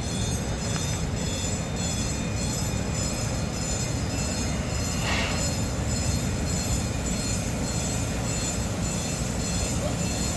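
Steady rumbling noise of a park railway train, with a brief higher hiss or squeal about five seconds in.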